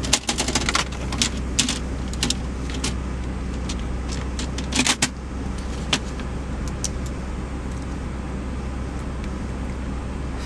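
Steady drone of a moving car heard from inside the cabin, with scattered clicks and rattles, most of them in the first six seconds.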